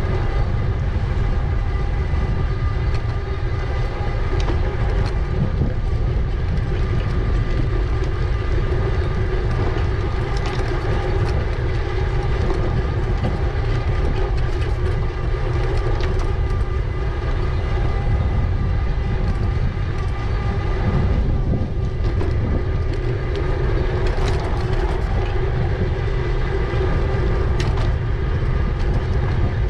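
Riding noise of an e-bike at steady speed: low wind rumble on the microphone with tyre noise and a steady whine from the drive.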